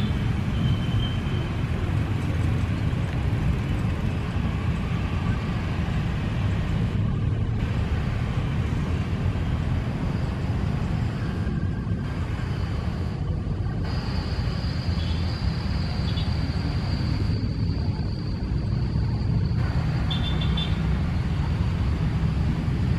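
Steady low rumble of strong wind buffeting the microphone outdoors, with a faint high steady whine joining about halfway through.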